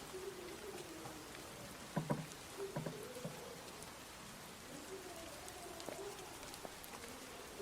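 Light rain pattering steadily, with a dove cooing low several times and a couple of soft knocks about two seconds in.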